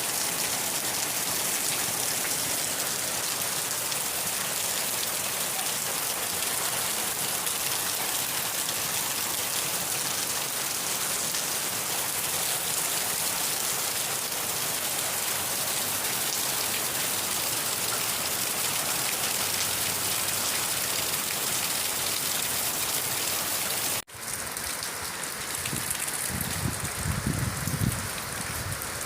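Steady rain falling in an even hiss. About 24 s in it cuts off abruptly and comes back as a thinner rain sound, with a low rumble a couple of seconds later.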